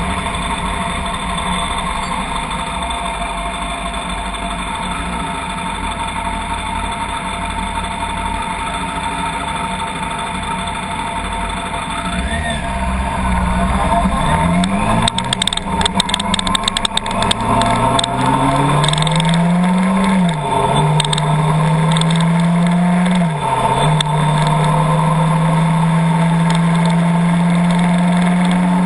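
Car engine heard while driving: a steady low rumble, then from about halfway in the engine revs up through the gears, its pitch climbing and dropping back at each change, before settling into a steady cruise. A run of clicks sounds during the first gear changes.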